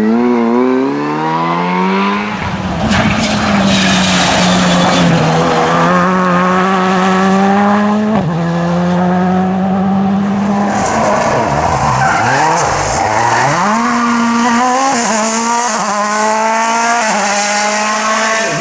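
World Rally Car's 1.6-litre turbocharged four-cylinder engine at high revs on a rally stage. The revs climb over the first two seconds and hold high, with a sudden drop at a gear change about eight seconds in. They fall away between about ten and thirteen seconds, then climb again in steps to high revs near the end.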